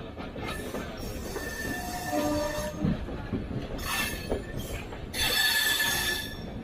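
Indian Railways train running on the track with a steady low rumble, its wheels squealing in high metallic tones, twice in long stretches, with scattered clicks of wheels over rail joints.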